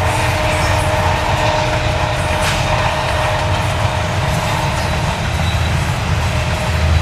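Double-stack container freight cars rolling past: steel wheels on rail give a steady rumble and clatter, with a thin steady whine above it that fades out near the end.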